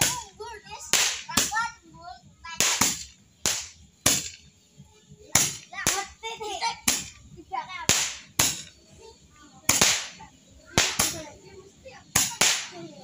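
Small firework rockets going off in an irregular string of sharp bangs and pops, about one or two a second.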